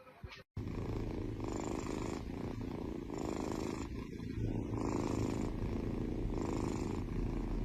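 Domestic cat purring steadily, the purr swelling and easing about every one and a half seconds with its breathing in and out.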